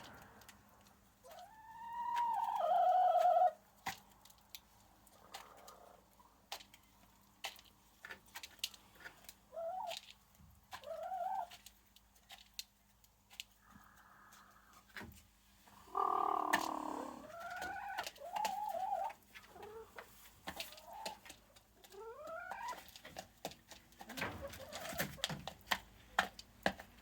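Domestic hens calling with short arched clucks and trills, in several bouts, among many sharp clicks of beaks pecking at grain.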